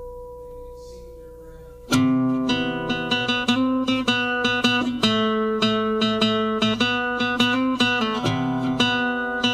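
Instrumental music: a held tone fades out, then about two seconds in a guitar part enters suddenly with quick plucked notes.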